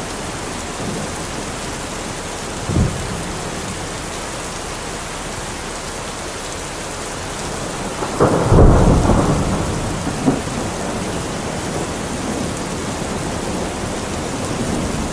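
Heavy rain falling steadily on a metal roof, with a brief low thunder thump about three seconds in and a louder, longer rumble of thunder about eight seconds in.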